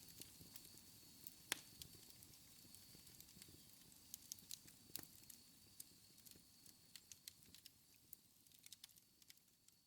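Faint crackling of a wood fire in a fireplace: irregular sharp pops and snaps over a low rumble of flames, with one louder pop about one and a half seconds in, growing fainter near the end.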